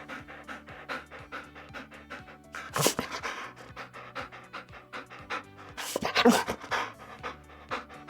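Dog panting rapidly in short quick breaths, with two louder sounds about three and six seconds in.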